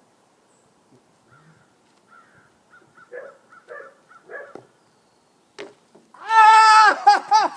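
A dog whining faintly in short bursts, then one sharp smack, then a loud, high-pitched excited cry with several falling yelps near the end.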